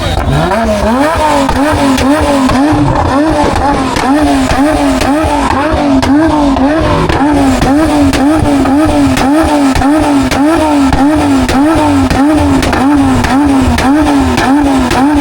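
A car engine revs up in the first second and is then held at high revs, its pitch rising and dipping about twice a second as the throttle is worked.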